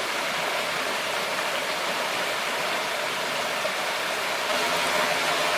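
Steady rushing of flowing river water. Near the end a steady engine-like hum joins in.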